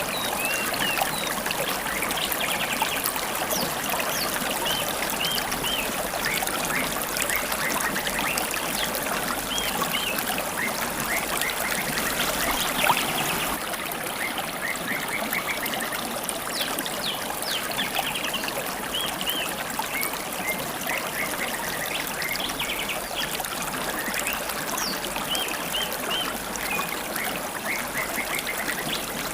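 A river's water babbling steadily, with wild songbirds giving many short, quick chirps over it, and one brief tick about 13 seconds in.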